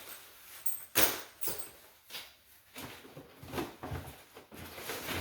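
Handling noises of a handbag being moved about: rustling with a few clicks and knocks, the sharpest about a second in.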